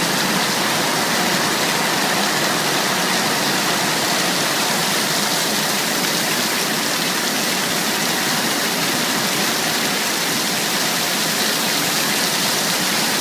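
Steady downpour of rain, an even, unbroken hiss of water.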